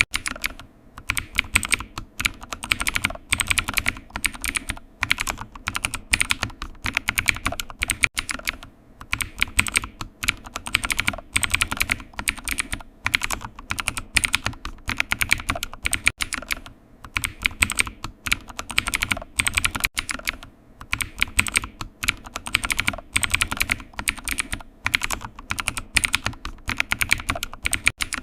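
Computer keyboard typing: quick, continuous runs of key clicks, broken by short pauses every few seconds.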